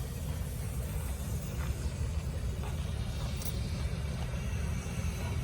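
A workshop machine running with a steady low rumble, with a few faint clicks over it.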